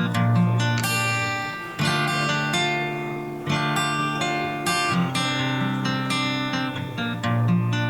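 Acoustic guitar strumming chords, one new chord every second or two, as the instrumental ending of a song with no singing.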